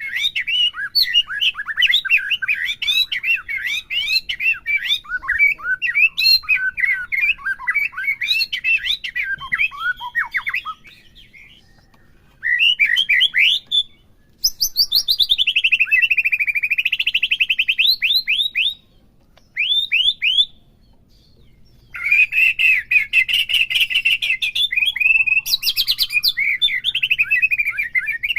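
White-rumped shama (murai batu) singing a loud, varied song of rapid chirps and whistled notes, broken by short pauses. In the middle it gives a long rolling trill that dips in pitch and rises again.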